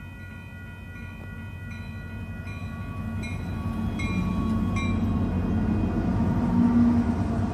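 Grade-crossing bell ringing in regular strokes while two Union Pacific diesel locomotives, an EMD SD70M and a GE ET44AH, approach and pass. The engines' rumble grows steadily louder and is loudest about seven seconds in.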